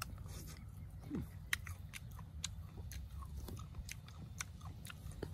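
A person chewing crunchy raw fruit, a steady run of crisp crunches at about two a second.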